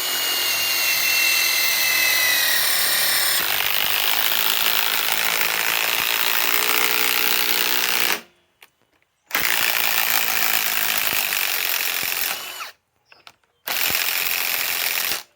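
Ryobi PSBIW25 compact cordless impact wrench hammering a long screw into wood under heavy load. It runs in three trigger pulls: one long run of about eight seconds, with its pitch sagging at first, then a shorter burst and a brief last one as the screw goes home.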